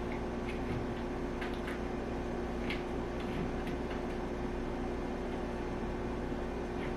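A few faint, scattered plastic clicks and taps as the lint filter at the back of a portable clothes dryer is handled, over a steady low hum.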